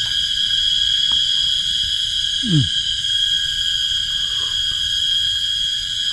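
Steady, shrill chorus of forest insects droning without a break. About two and a half seconds in, a single short low sound slides downward.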